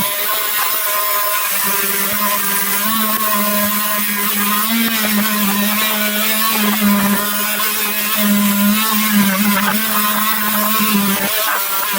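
Electric power tool motor running with a steady hum while working driftwood. Its lowest tone drops away for about the first second and a half and again shortly before the end.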